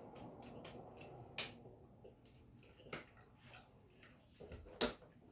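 Faint crunches and sharp clicks of people biting and chewing pieces of a chocolate bar, a few separate snaps, the loudest near the end.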